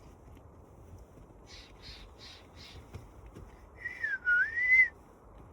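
Wild birds calling: a quick run of five short, raspy calls, then a louder whistled note about four seconds in that dips down and rises again.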